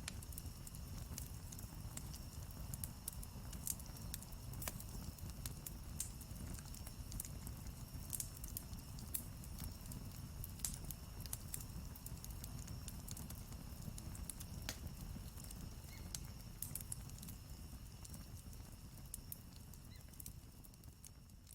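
Wood campfire crackling: irregular sharp snaps and pops over a low steady rumble, fading out near the end.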